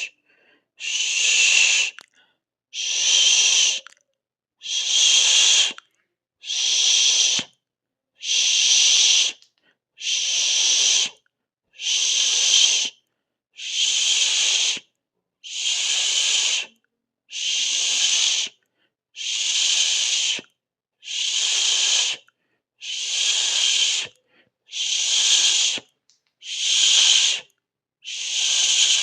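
A person hissing 'sss' through the mouth, over and over: each hiss lasts about a second, one every two seconds, with silence between.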